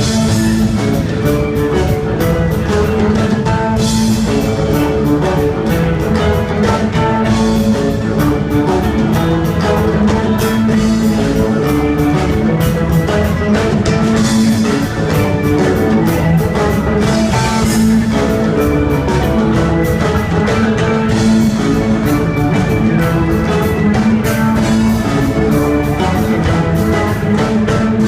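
Live rock band playing: electric lead and rhythm guitars, bass, keyboards and a drum kit, loud and continuous.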